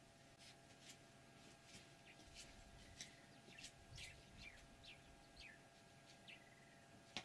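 Faint bird calls: short, high chirps that drop in pitch, about two a second. A single sharp click comes near the end.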